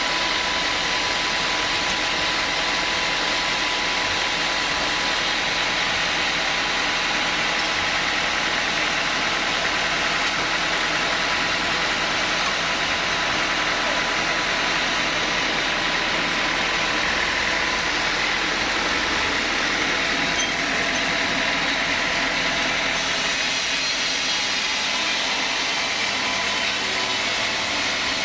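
Sawmill machinery running steadily, a continuous mechanical noise with a thin steady hum; its sound shifts slightly about 23 seconds in.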